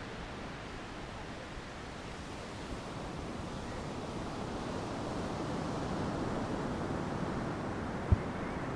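Steady rush of ocean surf on a beach, swelling a little toward the middle, with one brief low thump near the end.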